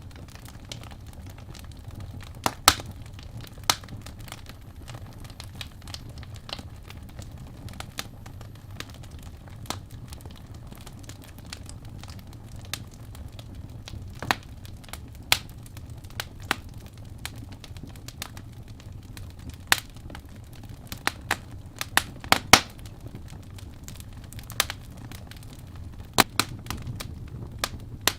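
Wood logs burning in a fireplace: irregular sharp crackles and pops over a low steady rumble of the flames, with a cluster of louder pops about three-quarters of the way through.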